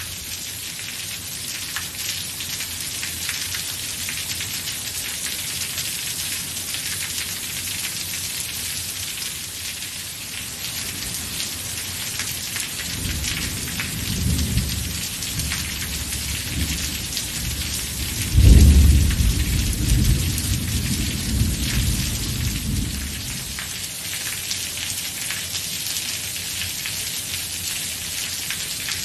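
Steady rain falling, with a roll of thunder. The low rumble begins about halfway through, swells into a louder clap a few seconds later, then dies away while the rain continues.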